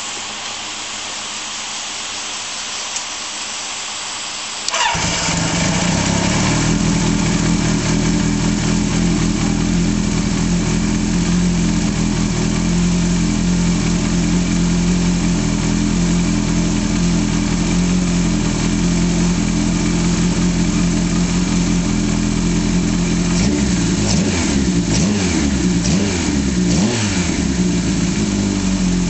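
Freshly rebuilt Kawasaki Z air-cooled inline-four, fitted with a high-lift cam, Yoshimura 69 mm big-bore pistons and a Z2 crank, catching and firing up about five seconds in after a few seconds of steady whirring. It then runs steadily, and the revs rise and fall briefly near the end.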